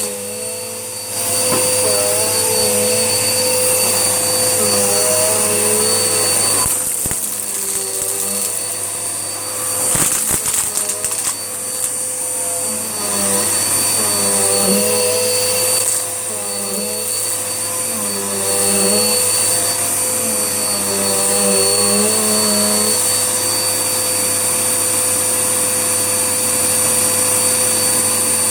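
Hoover Whirlwind upright vacuum cleaner running steadily with a high whine, its lower note wavering as it is pushed back and forth over the mess, with a few sharp rattles about 7 and 10 seconds in. The owner says its motor, running on a new belt, doesn't sound quite right.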